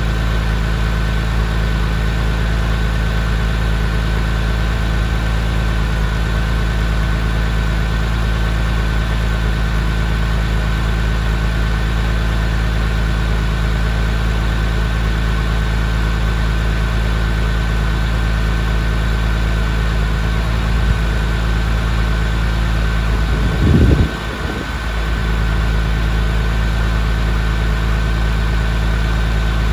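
2002 Porsche 911 Carrera's flat-six engine idling steadily while warming up after a cold start. About three-quarters of the way through comes a brief low thump, after which the sound dips for a moment.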